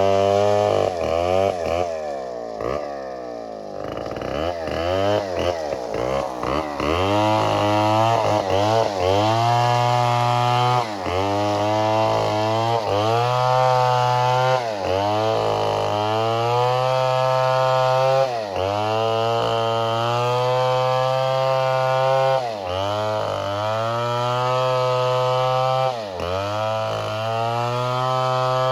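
Chainsaw running at high revs and cutting wood, its pitch repeatedly dipping sharply and climbing back about every second or so.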